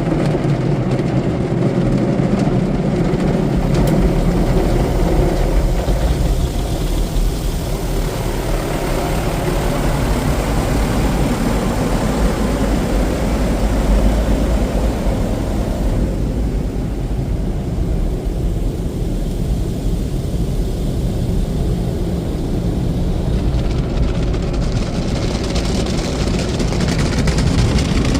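Automatic tunnel car wash heard from inside the car: a steady low rumble of wash machinery and water, changing in character a few times as the car is carried through, with more hiss near the end.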